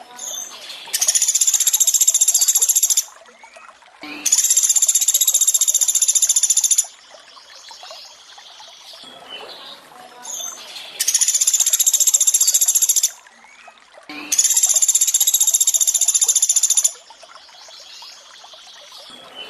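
Recorded calls of a Sunda pygmy woodpecker (pelatuk beras): four long, high, buzzing rattle-trills, each about two seconds long, coming in two pairs. A faint trickle of running water plays underneath.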